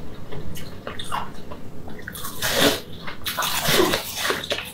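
Close-miked eating sounds: wet, crackling crunches as a frosty coated food is bitten and chewed, loudest in two spells about two and three and a half seconds in.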